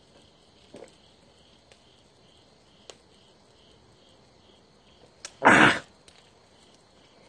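Crickets chirping steadily, a couple of evenly spaced pulses a second, with a few faint clicks. About five and a half seconds in comes a short, loud rush of breathy noise lasting about half a second.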